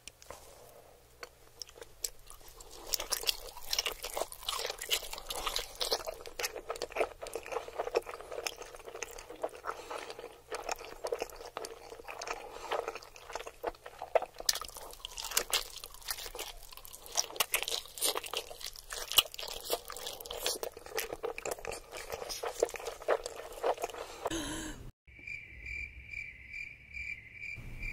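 Close-miked ASMR chewing of a whole block of canned luncheon meat (Spam-style): a dense, continuous stream of crunchy mouth clicks and smacks. After a break near the end comes a high tone pulsing about three times a second.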